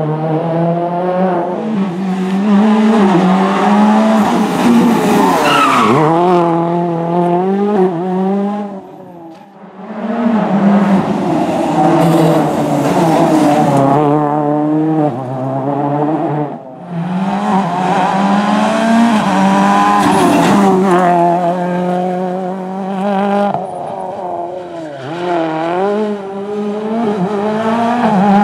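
Ford Fiesta RS WRC rally car's turbocharged four-cylinder engine at full throttle on a hill climb, the revs rising and stepping down again and again as it shifts up and lifts for corners. The sound dips briefly about nine seconds in, then builds again.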